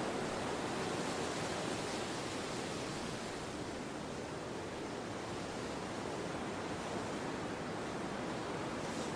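Steady wind blowing, an even rushing noise that eases slightly in the middle and builds again.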